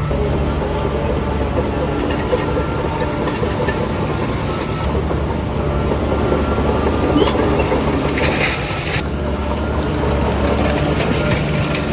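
Heavy diesel earthmoving machinery running steadily under load, with a metallic clatter over the engine and a hiss of about a second near eight seconds in.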